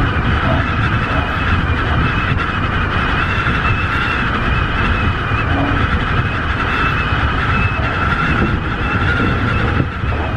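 Tobu 50090 series electric train running at speed, heard from inside the front car: steady rolling noise of wheels on rail with a faint steady high tone over it.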